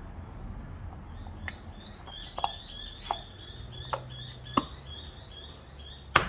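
A small bird chirping rapidly in short, high, repeated notes, with about six sharp clicks and knocks scattered through it.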